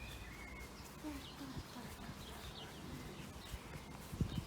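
Garden birds chirping: short, scattered high calls over a low steady background, with a low thump near the end.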